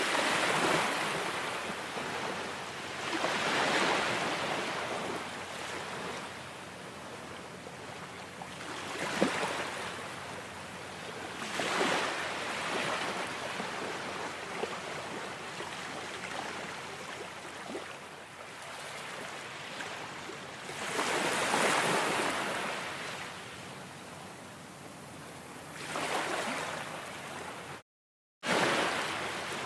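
Ocean waves washing onto a shore, each surge of surf swelling and fading every few seconds. The sound cuts out suddenly for about half a second near the end.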